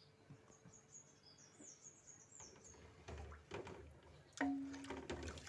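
A small bird chirping: a quick run of short, high notes through the first half. Then come a few knocks, the loudest about four and a half seconds in, with a brief low tone.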